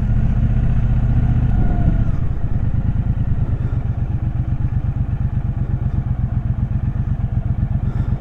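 Triumph Speedmaster's parallel-twin engine running, heard from the rider's seat. About two seconds in it eases off and settles into a low, even, pulsing beat.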